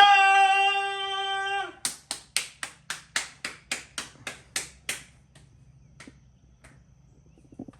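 A steady held note for nearly two seconds, then a single person clapping about a dozen times, roughly four claps a second, growing fainter until it stops about five seconds in.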